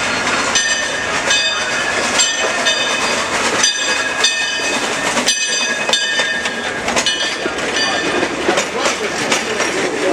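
Frisco Silver Dollar Line train, locomotive 43, running with its bell ringing steadily about twice a second over the rumble and clatter of the cars.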